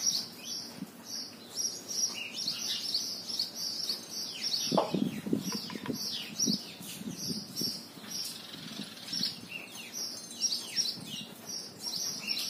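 Small birds chirping over and over in quick, high, downward-sliding notes, with a brief lower rustling sound for a couple of seconds around the middle.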